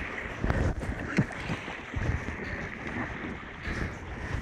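Strong wind buffeting the microphone and water rushing past the hulls of a Hobie 16 catamaran sailing fast in a strong breeze, with a few thumps.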